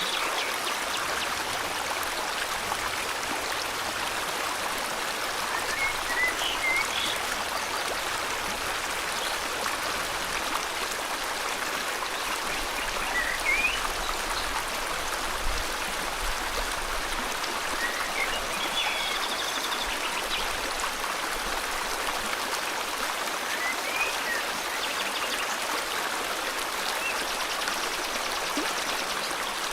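River water flowing steadily, with short bird chirps and a brief trill every few seconds above it.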